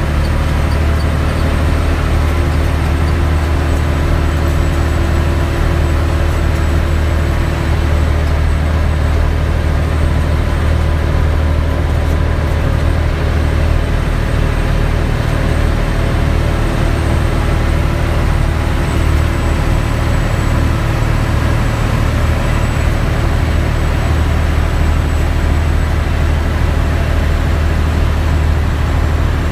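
Scania 113H truck's 11-litre six-cylinder diesel engine pulling steadily under load on a long uphill climb, running loud and even throughout.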